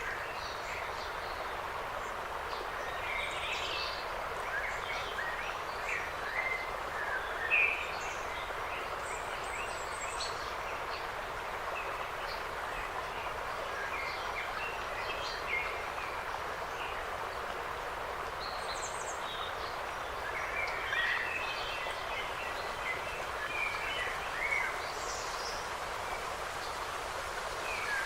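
Forest ambience: a steady rushing background hiss with small birds chirping in short, scattered calls, busiest in two spells, early on and again past the middle.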